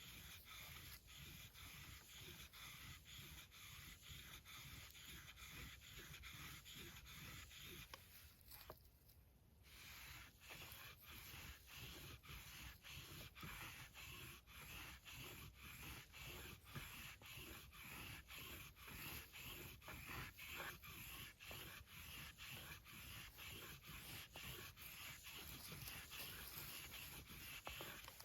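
Nata (Japanese hatchet) blade being stroked back and forth on a sharpening stone, in faint, even rubbing strokes about two a second, with a short pause about nine seconds in.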